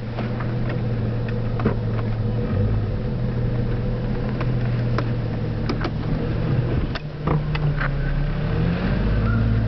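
Cherokee's engine heard from inside the cabin while driving: a steady drone whose pitch steps up about seven seconds in, then rises and falls again near the end as the driver accelerates. A few light clicks and rattles sound over it.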